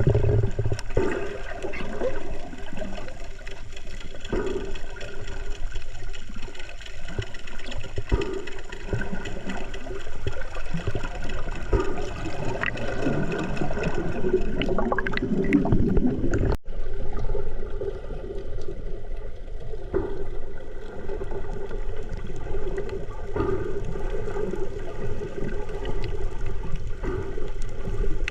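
Water churning and gurgling around the microphone during fish feeding in the sea, over a steady low hum made of several tones. The sound breaks off abruptly about two-thirds of the way through and starts again.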